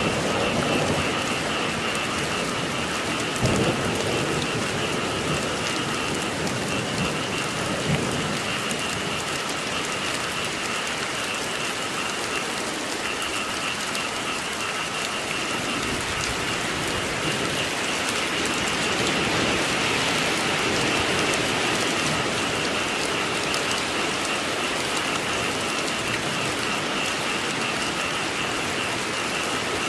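Steady rain falling on surfaces, with a constant chorus of frogs croaking beneath it as a steady high band. A single sharp thump comes about three and a half seconds in.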